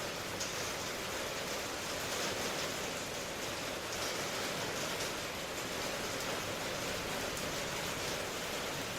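Steady rainfall, a continuous even hiss of rain with faint scattered drop ticks and no change in intensity.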